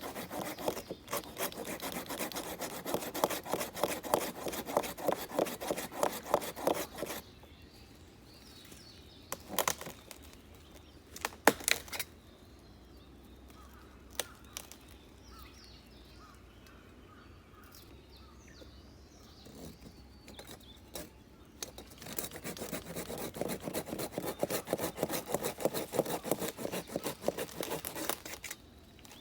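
Japanese pull saw (nokogiri) cutting wood by hand in quick, even strokes, in two bouts of about seven seconds each. Between the bouts there are a few sharp knocks of wood.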